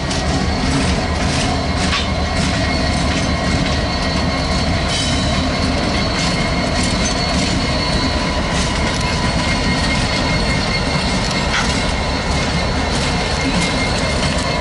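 A train rolling past: a steady rumble of wheels on rails with clicks over the rail joints and a thin, steady squeal from the wheels.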